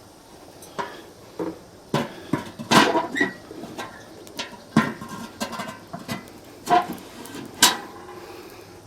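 Metal clanks and knocks from a large old cooking pot used as a fire pit being handled and set down on a metal stand, a dozen or so irregular hits, some ringing briefly.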